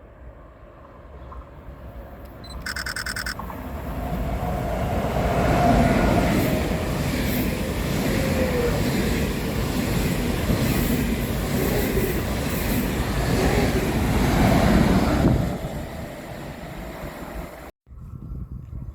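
A train passing at speed: rushing wheel and rail noise that builds up, stays loud for about ten seconds and then fades, with a brief high-pitched tone about three seconds in.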